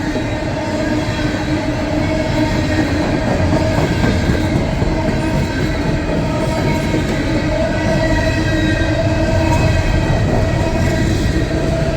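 Empty coal hopper cars rolling past on steel rails, a continuous rumble of wheels with thin steady squealing tones from wheels on the rail. The train is gradually gaining speed.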